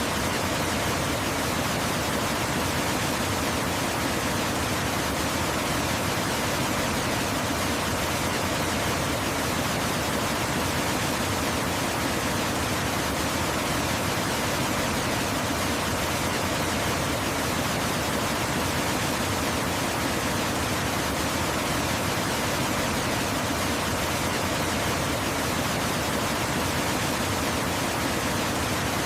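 Waterfall: falling water rushing in a steady, even hiss that never changes in level.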